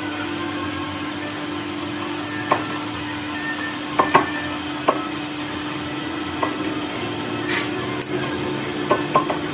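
Scattered metal knocks and clinks of tools on metal parts, about ten spread unevenly, over a steady machine hum, with a short hiss a little after seven seconds.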